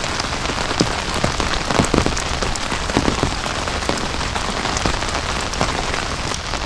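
Heavy rain pouring steadily, with many individual drops tapping sharply close by on the shelter.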